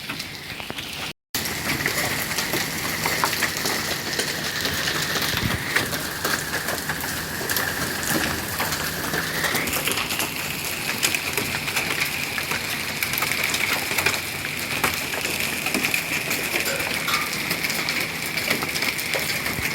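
Hail with rain pelting the ground and surfaces: a dense, steady patter broken by many sharp ticks as pea- to penny-sized hailstones strike and bounce. A faint steady high tone runs underneath.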